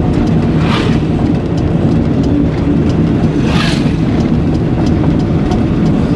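Steady engine and road noise of a car driving, heard inside the cabin, with two brief hissing swells about a second in and near the middle.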